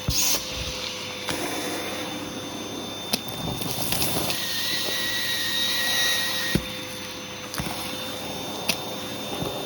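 Hoover vacuum cleaner running steadily with a hose tool drawn over carpet, its motor holding an even whine. A few sharp knocks of the tool are heard, and a thin whistle joins the suction for about two seconds mid-way.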